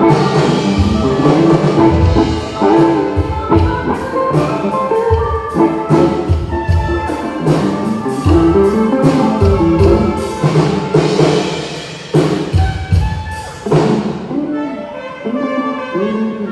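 A brass band playing, with trumpets and other horns over a drum beat and crash cymbals. About fourteen seconds in, the drums and cymbals drop out and the horns carry on more softly.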